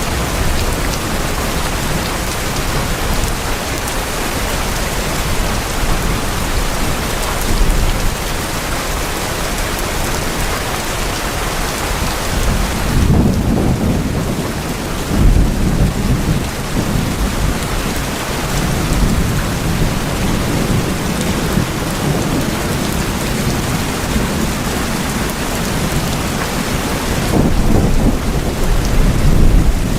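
Steady heavy rain falling on tin roofs, with thunder rumbling low about 13 seconds in and again near the end.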